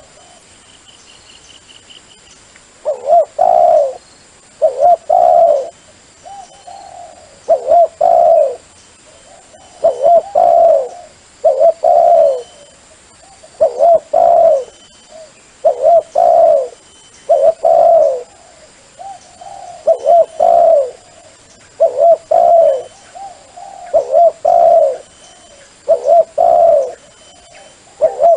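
A dove (นกเขา) cooing in short phrases of a few coos, repeated about every one and a half to two seconds, starting about three seconds in. It is the dove call used to lure wild doves in decoy trapping.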